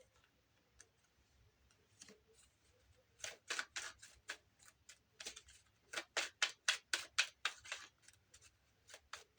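A run of short, dry scraping strokes, roughly two to three a second, starting about three seconds in after a few faint clicks.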